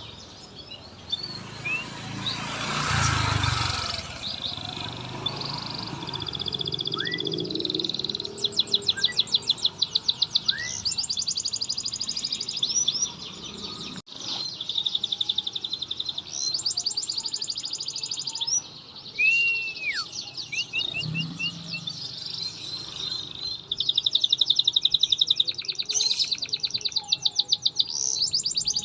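Canary singing a long, varied song of rapid high trills, rattling rolls and short whistled slurs, with the loudest rattling trills in the middle and near the end. It is the kind of canary song played as a lure to get a reluctant canary to sing. A brief rustling noise comes a few seconds in.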